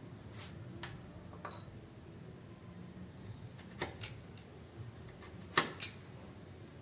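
A few scattered light clicks and knocks, the loudest about five and a half seconds in, over a low steady hum.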